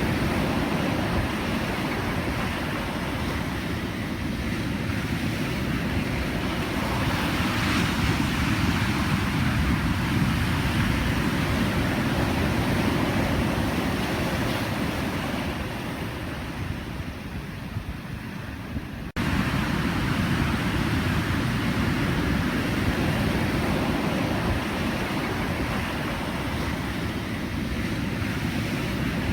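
Pacific Ocean surf washing steadily ashore, a continuous rush of breaking waves. About two-thirds of the way through, the sound fades slightly and then cuts abruptly back to full level, as at an edit splice.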